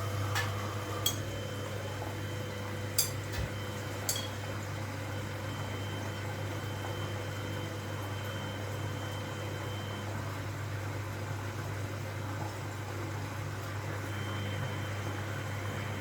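Washing machine running mid-cycle: a steady motor hum with a faint whine, and a few light clicks in the first few seconds.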